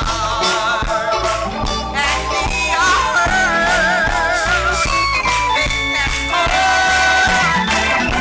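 Gospel music playing: a band with a steady drum beat, and sustained wavering melody lines of singing.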